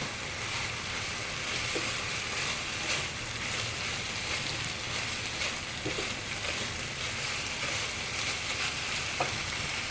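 Minced chicken sizzling steadily in a hot pan as it is stir-fried, the liquid cooking off, with faint scrapes and clicks of the spatula.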